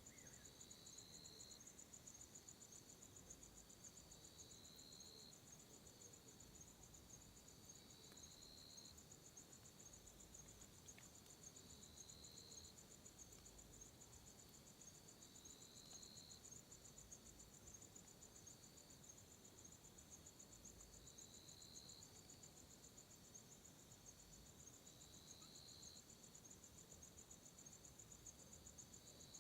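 Faint night insect chorus: crickets trilling steadily and high, with a lower chirping call repeating about every four seconds.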